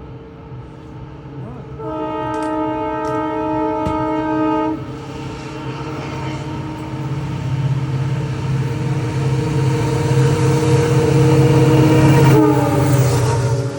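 A WDP4D diesel locomotive sounds its horn for about three seconds, then the train comes closer, its engine rumble and running noise growing louder to a peak. The engine's pitch drops as it passes near the end.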